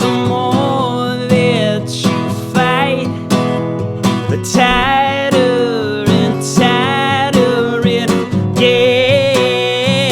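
Live acoustic song: an acoustic guitar strummed and picked, with a held melody line that slides between notes over it.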